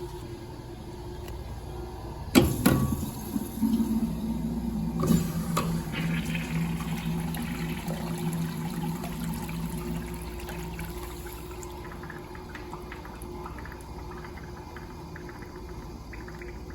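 Toilet flushing: it starts suddenly about two and a half seconds in, surges again a couple of seconds later, and the loud rush of water, with a low hum, tapers off over several seconds into quieter running water.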